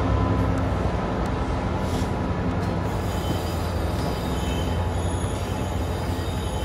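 Class 66 diesel locomotive's two-stroke V12 engine running as it hauls loaded hopper wagons away, with the wagons' wheels rolling over the track close by. A thin high squeal from wheels on the curve comes in partway through, and the sound eases off slightly as the train draws away.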